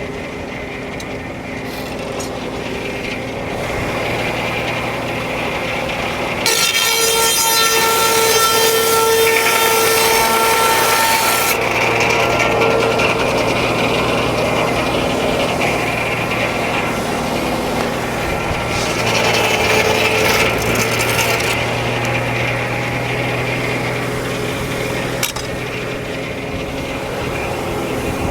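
Frick No. 1 sawmill's circular saw blade cutting through a log, with the drive engine running steadily underneath. The cut starts suddenly about six seconds in with a loud whining rasp that lasts about five seconds, and a second, softer stretch of cutting comes about two-thirds of the way through.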